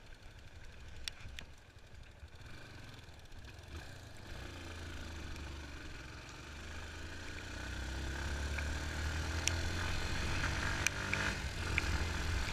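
Yamaha Fazer 250's single-cylinder engine running on the move, its pitch rising twice as it picks up speed and getting louder toward the end, under a low wind rumble. There are a few sharp clicks near the end.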